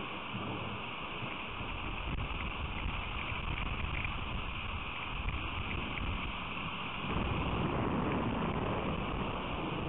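Rain storm heard through an outdoor feeder camera's microphone: a steady hiss of falling rain that gets louder about seven seconds in.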